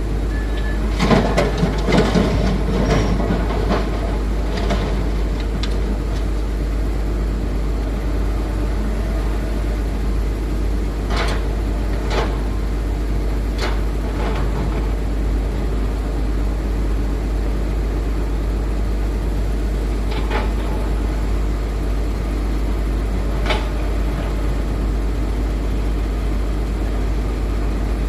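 Heavy diesel machinery running steadily as an excavator loads a dump truck. About a second in comes a few seconds of loud clattering as a load drops into the truck bed, and single knocks and clanks sound now and then after that.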